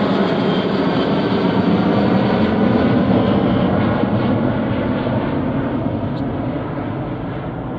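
Airliner engines passing close by: a loud, steady engine noise that peaks about three seconds in and then fades as the aircraft moves away.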